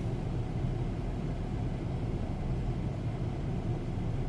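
Saab B235R 2.3-litre turbocharged four-cylinder engine idling steadily as a low hum, heard from inside the cabin while it warms up after a cold start.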